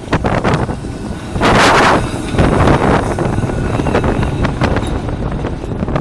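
A tram running by, a rumble with repeated sharp clatters, while wind buffets the microphone. A loud rushing burst comes about one and a half seconds in and lasts about half a second.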